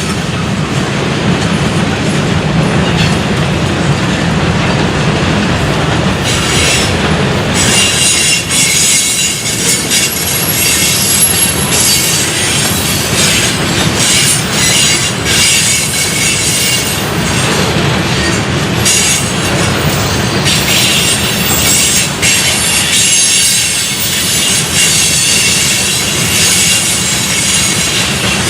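Railroad cars rolling past on the track: a steady rumble and rattle of wheels on rail, with high-pitched wheel squeal throughout.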